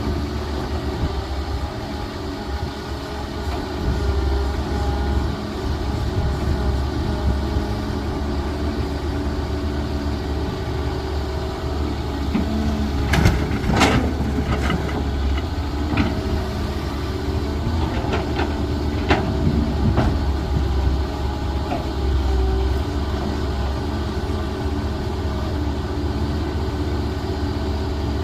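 Diesel engine of a heavy construction machine running steadily, with a handful of sharp metallic clanks and knocks about halfway through.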